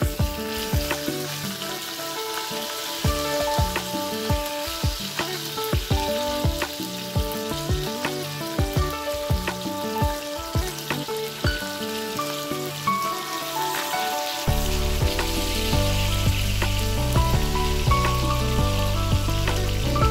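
Dried fish sizzling as it fries in hot oil in a pan, under background music with a steady beat; a heavier bass comes into the music about two-thirds of the way through.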